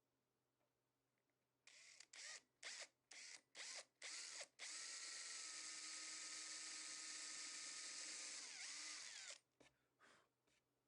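Electric drill pulsed in six short trigger bursts, then run steadily for about five seconds before winding down and stopping.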